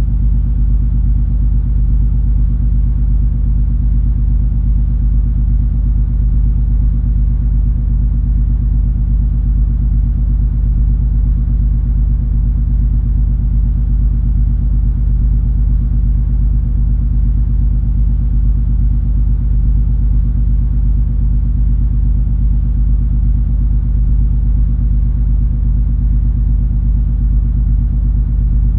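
Steady low drone of the cruise ferry MS Color Magic under way: engine and hull rumble with a constant deep hum that holds unchanged throughout.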